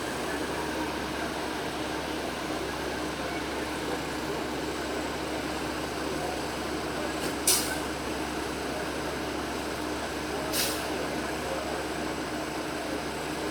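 Steady road traffic noise, with two short hissing bursts, the first a little past halfway and the second about three seconds later.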